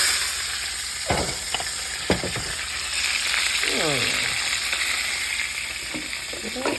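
Chicken frying in hot oil in a frying pan: a steady sizzle, loudest at the start and then settling. A few short falling squeaks cut through it, about one, two and four seconds in.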